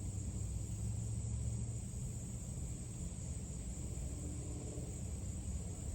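Steady background ambience: a constant low rumble with an unbroken high-pitched hiss over it, and no distinct events.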